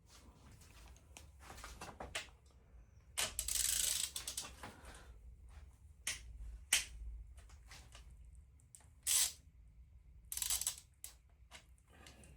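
Hand tools working on engine parts: scattered metal clicks and knocks, with a few short hissing bursts, the longest about three seconds in.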